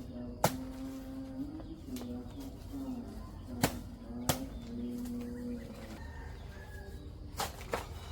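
Blade chopping into a banana tree trunk: five sharp strikes, one about half a second in, two close together near the middle and two close together near the end, over background music with a held, slowly stepping tone.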